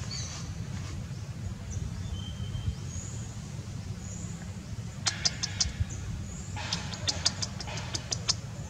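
Small birds chirping over a steady low rumble: a few faint high whistles at first, then two runs of quick sharp chirps, a short one about halfway through and a longer one near the end.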